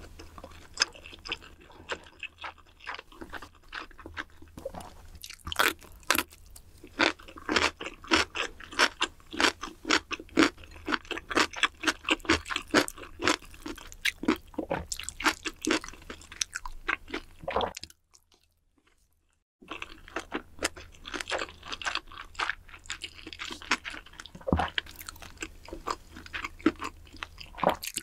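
Close-miked chewing of Korean bunsik food, mostly rabokki rice cakes and ramen noodles in spicy sauce: a quick, steady run of short chewing sounds. It drops out to near silence for about two seconds a little past the middle.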